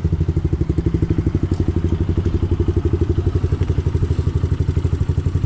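A dirt bike's single-cylinder four-stroke engine idling with a steady, even, rapid pulse.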